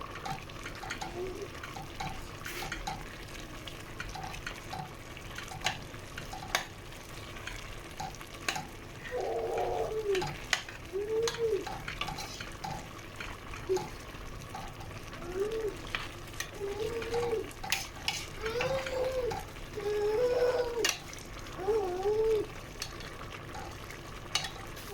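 A spoon stirring a pot of simmering mung bean stew, with scattered sharp clicks of the utensil against the pot over a steady bubbling hiss. Through the middle stretch, short pitched sounds that rise and fall come about once a second and are the loudest thing heard.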